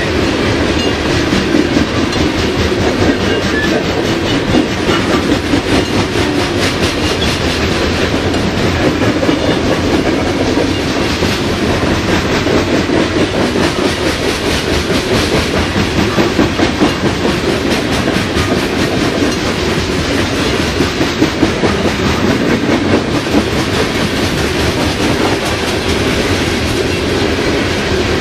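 Canadian Pacific coke train's freight cars rolling past: a steady rumble of steel wheels on rail, with repeated clicks as the wheels pass over rail joints.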